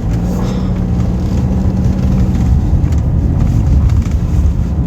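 Car driving, heard from inside the cabin: a steady low engine and road rumble, with a hum that is strongest in the first couple of seconds and then fades.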